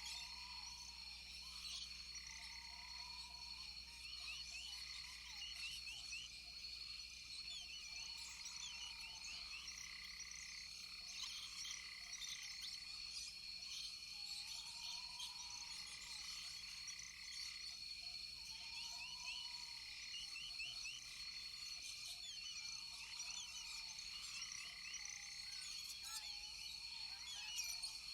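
Rainforest frog and insect chorus: a low, arched call repeats every few seconds over steady high insect tones and many short, quick chirps.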